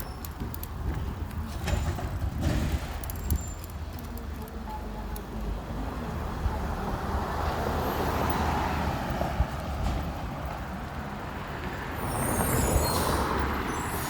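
Garbage truck engine running with road noise, growing louder about eight seconds in, and a short high hiss near the end.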